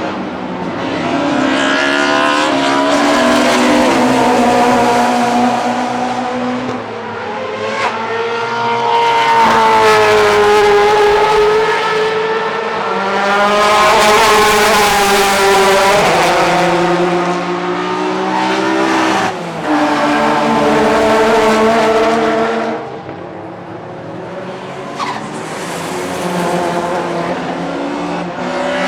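Historic DTM touring cars racing past one after another, engine notes rising and falling in pitch as they accelerate and shift, in several loud swells with a brief lull near the end.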